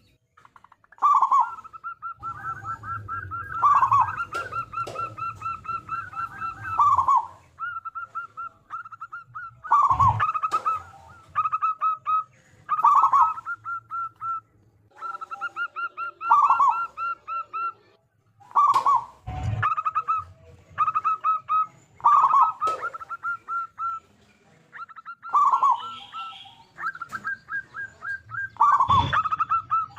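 Zebra doves (perkutut) singing, several at once: phrases repeated every few seconds, each a lower swooping coo followed by a quick run of clipped, staccato notes. A few dull thumps come about a third of the way in, halfway through and near the end.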